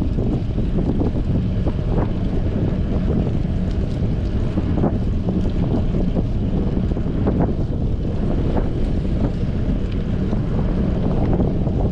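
Strong wind buffeting a bike-mounted GoPro's microphone while cycling: a steady low rumble, with a few faint clicks scattered through it.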